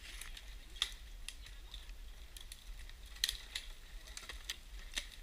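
Campfire crackling: burning wood popping and snapping in irregular sharp clicks, the loudest pop a little past three seconds in.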